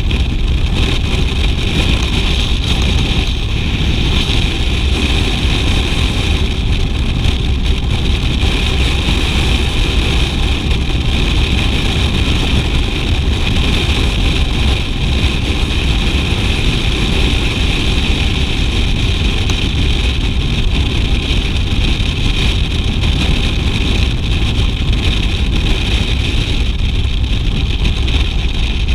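BMW R 1200 GS boxer-twin engine running steadily and loudly, with a deep low rumble and an even higher-pitched rush that does not change.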